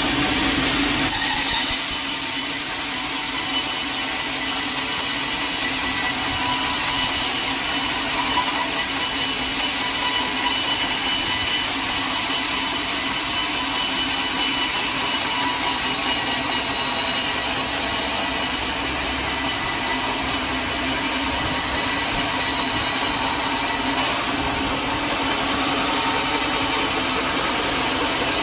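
Sawmill saw cutting lengthwise through a large log: a continuous grinding with steady high-pitched tones from the blade, the cut taking hold about a second in.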